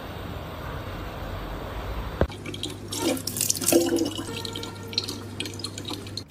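Running water with an even hiss. About two seconds in it changes abruptly to a busier stretch of clicks and knocks over a low hum.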